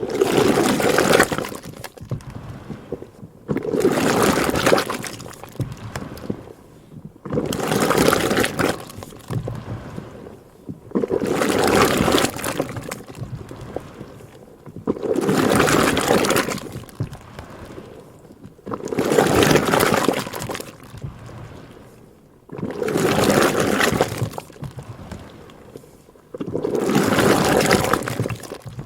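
Butter churn working: cream sloshing and splashing inside it in regular waves, about one every three and a half to four seconds, each lasting a second or two.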